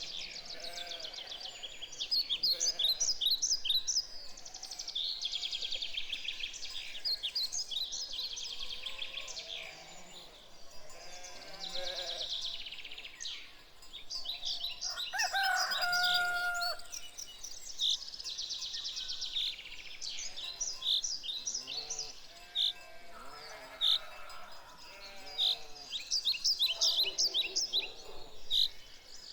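Farmyard morning ambience: a chorus of songbirds chirping and trilling throughout, with scattered lower calls from farm animals. About halfway through, one farm animal gives a single held call lasting about a second and a half.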